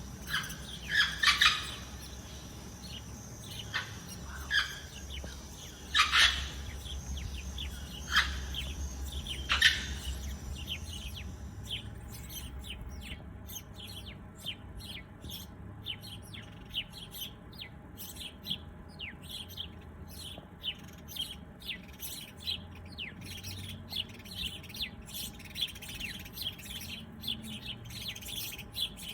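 Birds chirping. For about the first eleven seconds a few loud, separate chirps sound over a steady high tone; then the sound changes abruptly to a busy chorus of many quick, high chirps.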